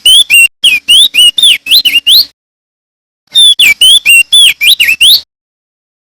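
Male opior jambul (crested white-eye) singing loudly. Two quick phrases of sweeping whistled notes, each about two seconds long, with a pause of about a second between them.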